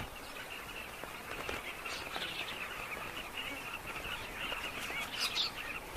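A colony of carmine bee-eaters calling: many short, high chirps overlapping in a steady chatter.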